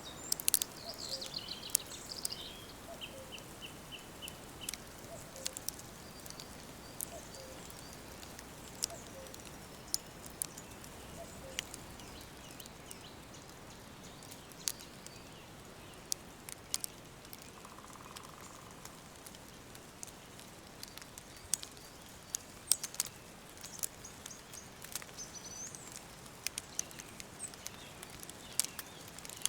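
Wood fire crackling, with sharp pops scattered throughout over a soft steady hiss, and songbirds calling: a falling trill and a quick run of about six repeated notes near the start, and a short rising chirp near the end.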